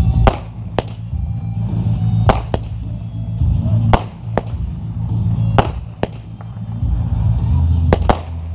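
Fireworks going off in about a dozen sharp cracks at irregular intervals, over loud music with a heavy bass line.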